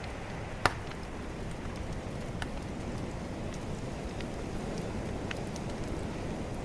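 Bonfire crackling with scattered small pops and one sharp, loud pop just under a second in, over a steady low wash of calm ocean waves.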